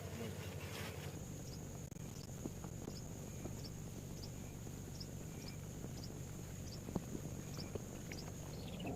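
Outdoor insect ambience: a steady high insect drone with short high chirps repeating a little under twice a second, over a steady low rumble.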